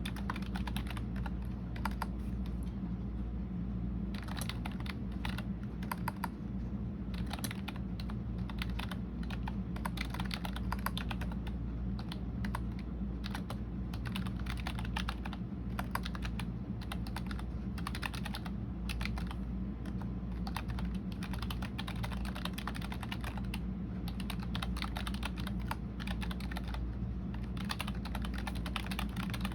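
Computer keyboard typing: a dense, irregular run of key clicks, pausing for a moment about two seconds in, over a steady low hum.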